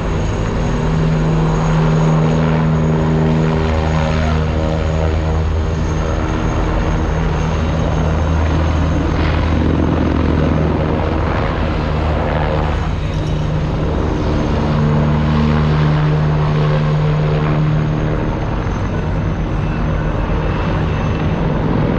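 RAAF military helicopter flying over, with a steady rotor beat and engine drone whose pitch wavers slightly.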